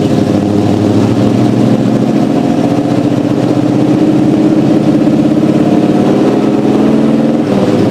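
Car engine idling steadily, with its note changing shortly before the end.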